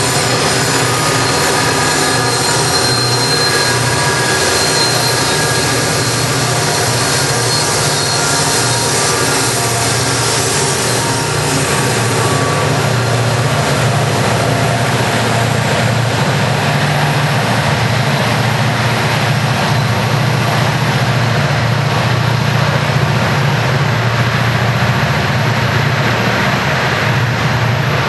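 Norfolk Southern diesel locomotives working a heavy coal train up the mountain grade, a steady loud engine drone. A high squealing edge on top fades after about twelve seconds.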